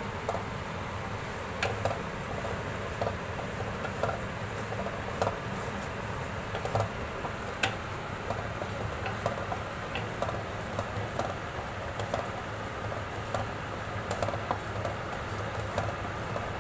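Carrot halwa sizzling and bubbling in a kadhai with a little cooking oil just added, with many short, irregular clicks and scrapes spread through it.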